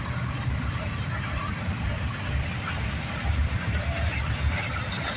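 Approaching diesel freight locomotive, a steady low rumble.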